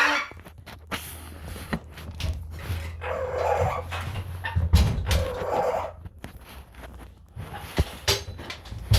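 Two short, rough animal calls, one about three seconds in and another about five seconds in, amid scattered light knocks and clicks of handling.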